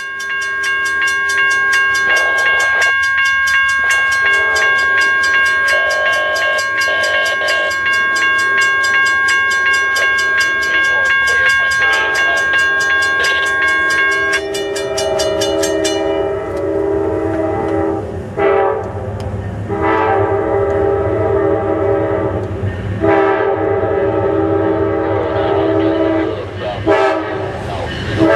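Diesel locomotive horn sounding a chord in long blasts with short breaks between them, while a grade-crossing warning bell rings steadily, about twice a second, until it stops about 16 seconds in.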